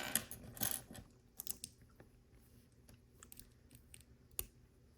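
Small hard plastic LEGO pieces clicking and rattling as they are handled and pressed together: scattered light clicks, a few in quick succession, with one sharper click near the end.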